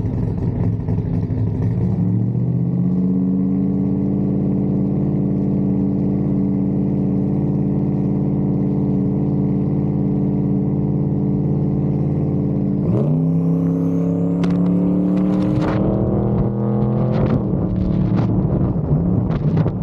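Drag-racing truck's engine heard from inside the cab. It is brought up to steady revs and held on the start line, then launches about two-thirds of the way through with a sharp rise in pitch, revs up through the gear, and drops in pitch once at a gear shift near the end.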